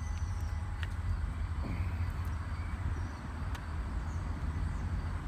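Outdoor background noise: a steady low rumble, with a few faint clicks and faint high chirping.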